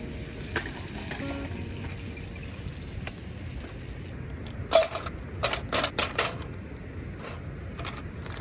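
Scattered clicks and knocks over a steady low background noise, with a cluster of several sharp, louder knocks a little past the middle.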